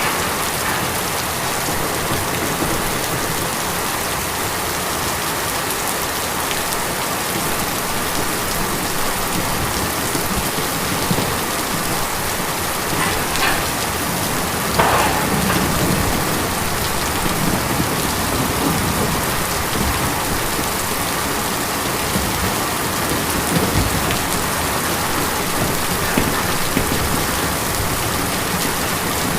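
Steady heavy rain drumming on a tin roof, a dense even patter with scattered louder drops.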